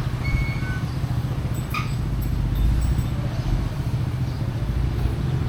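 A motor or small engine running steadily with a low, fast-pulsing hum. A brief high tone sounds within the first second, and a sharp click comes near two seconds in.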